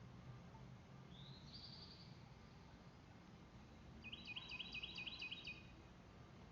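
A small songbird singing: a short high trill about a second in, then a quick run of about seven repeated phrases from about four seconds in, over a faint low hum.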